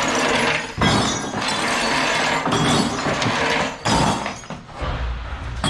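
Loose scrap brass and copper pieces clattering and crashing together as they are dumped and sorted into a bin. The clatter is continuous for about four seconds, then there is one sharp crash followed by lighter rattling.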